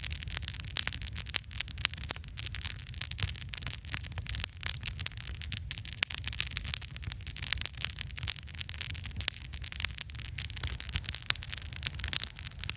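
Wood campfire crackling: a dense, irregular run of sharp pops and snaps over a low, steady noise from the burning fire.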